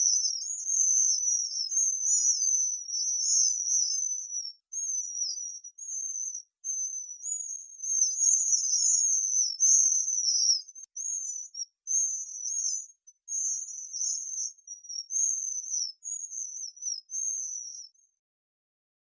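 Common swifts screaming: a rapid string of shrill, buzzy, high-pitched trilled screams that stops about a second before the end.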